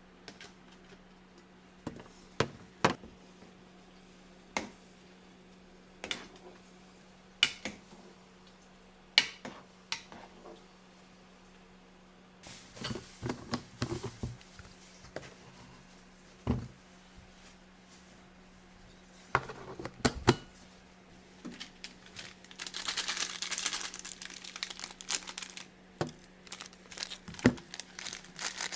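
Kitchen preparation sounds: scattered knocks and taps of utensils and containers, with plastic packaging crinkling and rustling, densest for a few seconds near the end. A steady low hum runs underneath.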